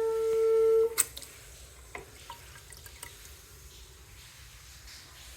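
Household water pipes under a sink giving off a steady, high-pitched whine with several overtones that grows louder and then stops abruptly with a click about a second in; a couple of fainter clicks follow. The whine only occurs while another faucet or the sprinklers are running.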